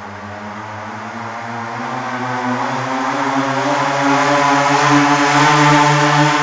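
Minibike's small engine running steadily, growing louder and rising slowly in pitch.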